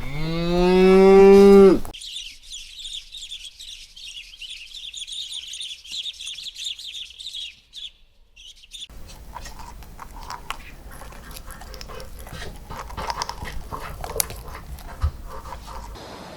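A cow moos once, a long low call that rises slightly in pitch and is cut off abruptly about two seconds in. High-pitched chirping follows, then scattered clicks and rustling noise.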